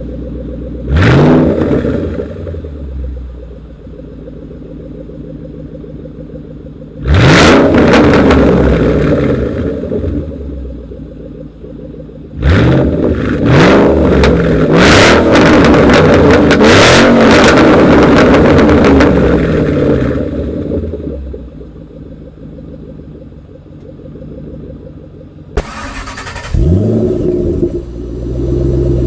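Modified exhaust of a 2011–2014 Mustang idling and being revved: a short blip about a second in, a longer rev a few seconds later, then a rev held for several seconds in the middle before it drops back to idle, and quick blips again near the end.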